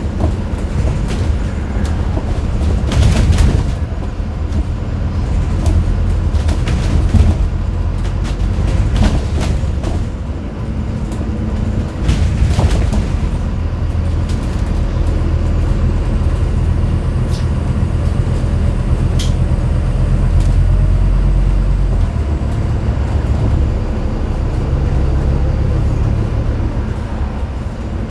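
Scania N250UD double-decker bus heard from the top deck under way: the low drone of its five-cylinder diesel engine, with scattered knocks and rattles from the body.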